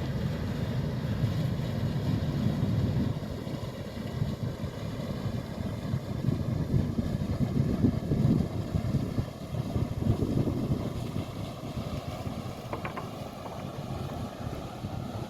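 Wind gusting on the microphone, with the low rumble of a passing motorboat's engine under it.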